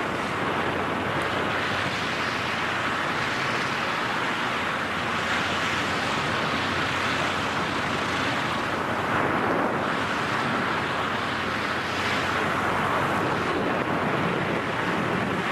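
Steady rush of air in freefall buffeting a microphone carried by a skydiver, an even roar of wind noise with slight swells.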